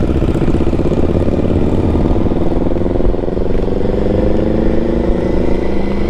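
Triumph Tiger's three-cylinder engine pulling under acceleration, its note rising steadily through the gears' range, with wind rumble on the microphone.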